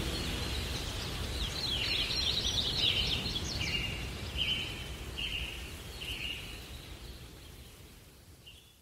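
Small birds chirping over a steady outdoor hiss: a flurry of quick chirps, then short calls repeating about once a second, the whole fading out toward the end.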